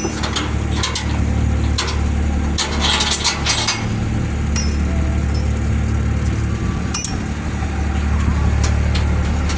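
Engine running steadily at a low, even idle, with scattered light clinks and clicks.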